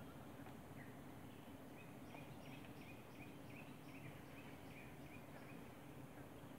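A bird calling a quick run of about a dozen short chirps, roughly three a second, from about two seconds in until about five seconds in, over a faint steady low hum and hiss of the forest background.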